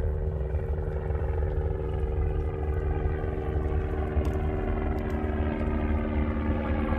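A steady engine drone, slowly falling in pitch, over a low rumble of wind.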